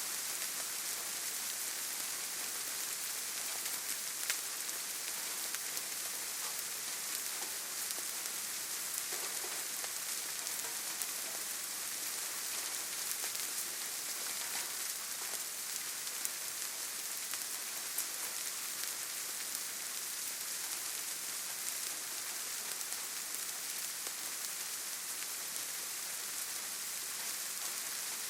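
Steady rain falling on leaves and forest ground, an even hiss with scattered individual drops ticking.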